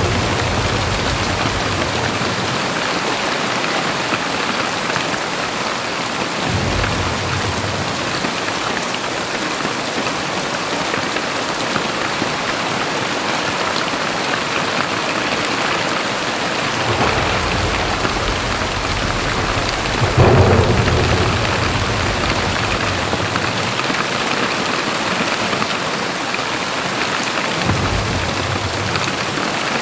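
Very heavy rain falling steadily. Low rumbles swell in three times, the strongest about two-thirds of the way in.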